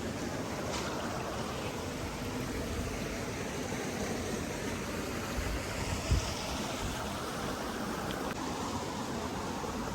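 Steady rush of flowing water, with a single low thump about six seconds in.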